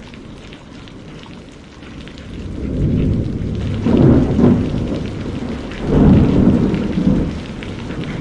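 Steady rain falling, with a deep rumble of thunder that builds about two seconds in and swells twice, once around the middle and again a couple of seconds later.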